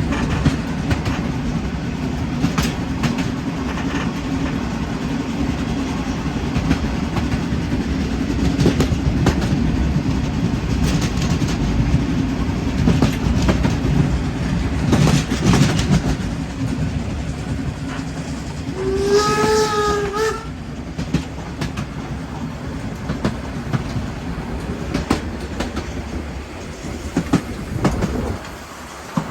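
HSB narrow-gauge steam train hauled by a 2-10-2 tank locomotive, running with steady rumble and wheels clicking over the rail joints. About two-thirds of the way through, the locomotive's steam whistle sounds once for about a second and a half. The train sound drops away sharply shortly before the end.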